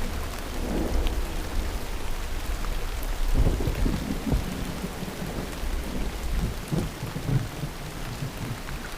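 Heavy rain pouring steadily, with rolling thunder that rumbles and crackles, loudest about three to four seconds in.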